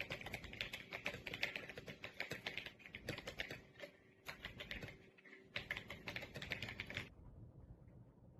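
Fast typing on an RK Royal Kludge S98 mechanical keyboard: a dense run of key clicks in bursts with brief pauses, stopping about seven seconds in.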